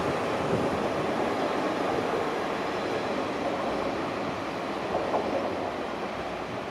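A train rumbling along the rails, the noise slowly fading as it moves away.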